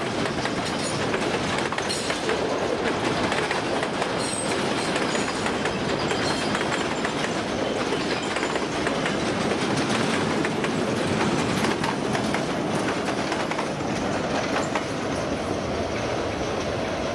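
Freight train wagons rolling past, with a steady clatter of steel wheels over the rails and a few faint, high wheel squeals in the first few seconds.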